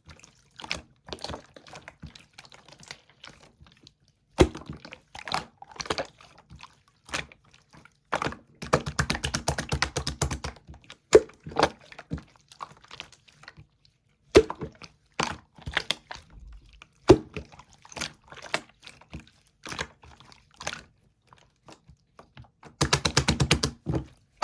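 Yellow slime being squeezed and pressed by hand, making sharp sticky clicks and pops as trapped air bursts. Twice, in the middle and near the end, it breaks into a quick run of crackling pops.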